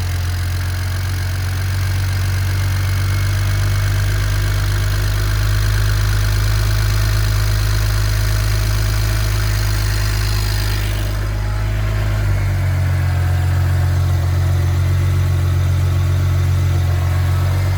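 BMW N54 twin-turbo inline-six in a 2008 335i idling steadily on its first start after new turbos and an overhaul. About twelve seconds in, the idle note shifts and settles.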